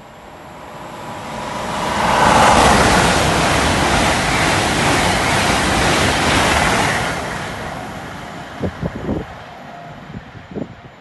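GWR Class 800 InterCity Express train running through the station non-stop at speed: a rushing roar that builds over the first two seconds, holds loud until about seven seconds in, then fades as it recedes. A few short low thumps follow near the end.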